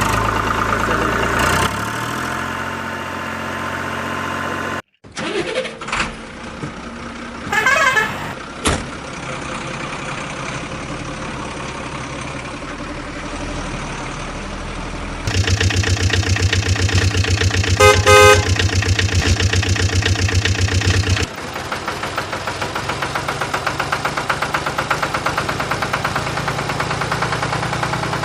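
Vehicle engine and horn sounds, likely a toy's built-in electronic sound effects or edited-in effects, in several segments that change abruptly. A loud, fast pulsing engine-like sound starts about halfway through and continues at a lower level near the end.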